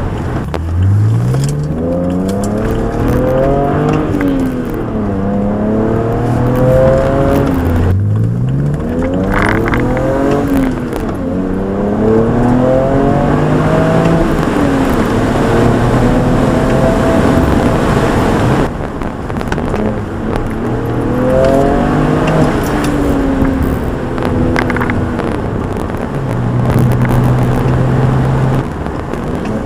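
BMW 335i's N54 twin-turbo straight-six on an aftermarket performance exhaust with high-flow cats, heard from inside the cabin. It pulls hard through the gears twice, its pitch climbing steeply and dropping back at each upshift, then settles to a steadier drone before a third, shorter pull near the end.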